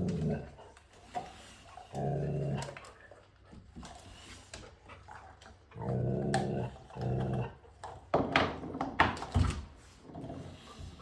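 Dog growling over a bone in four low, pitched growls of about a second each, a warning to back off. Near the end comes a short run of sharp clicks and knocks.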